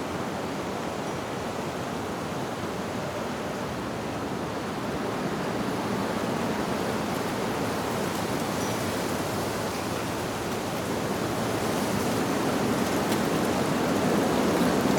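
Wind blowing through leaves as a steady rustling rush that swells gradually louder toward the end, with one faint wind chime note about midway.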